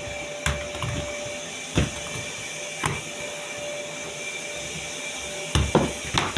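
Vacuum cleaner running steadily in an adjoining room, a continuous motor hum with a steady whine. A few short knocks or clicks sound over it, bunched together near the end.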